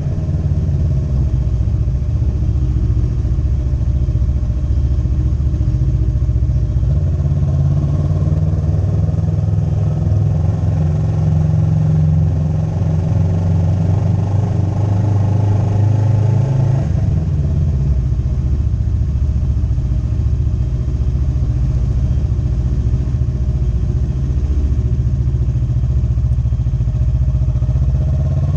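Motorcycle engine running while riding. Its note climbs gradually for about ten seconds, drops suddenly, holds steady, then begins to rise again near the end.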